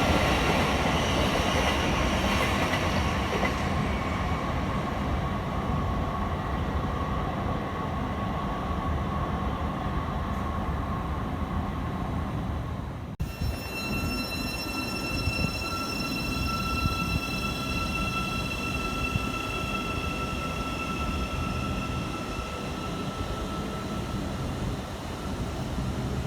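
Train running through a railway station, its noise slowly fading. After an abrupt cut about halfway through, another train is heard with a steady high-pitched whine over the running noise.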